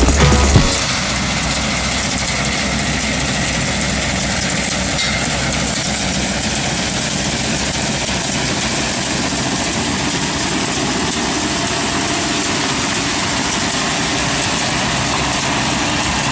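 A heavy machine's engine running steadily at an even pitch and level, after music cuts off in the first second.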